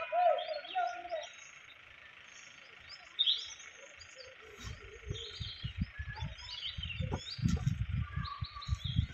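Small birds chirping in short high calls over a steady insect drone, with a brief wavering call in the first second. From about halfway, low muffled rumbles and knocks come and go.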